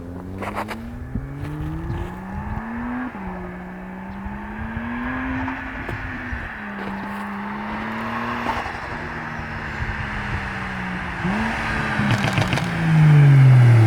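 BMW 135i's N55 turbocharged inline-six, fitted with a big single turbo, pulling hard. The engine note climbs, drops at a gear change about three seconds in, climbs again and holds. Near the end it gets louder and falls steeply in pitch.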